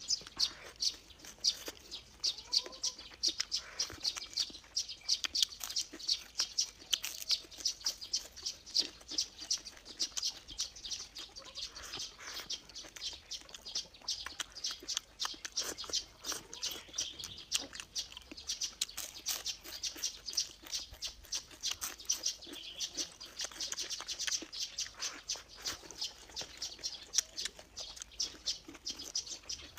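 Small birds chirping rapidly and continuously, a dense run of high, quick chirps.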